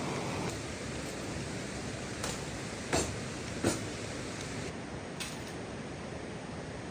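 Steady rain falling, with a few sharp taps standing out around the middle.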